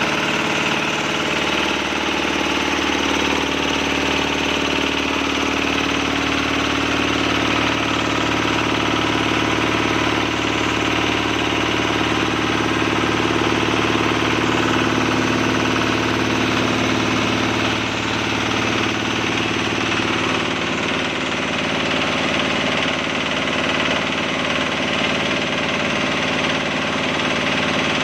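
Kubota diesel engine driving a Hicom air compressor, running steadily.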